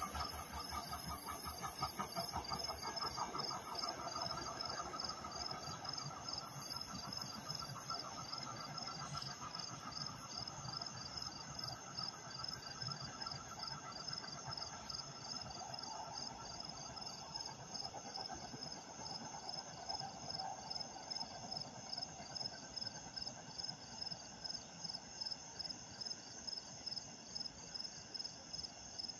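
NJ Transit commuter train hauled by an ALP-46A electric locomotive pulling away and fading into the distance. Insects chirp in a steady rhythm, about two pulses a second, and become the main sound near the end as the train dies away.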